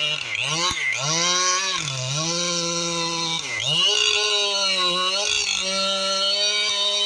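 Two-stroke chainsaw running at high revs and cutting wood. Its pitch drops sharply and recovers about three times in the first few seconds as the chain bogs in the cut, then it runs steady.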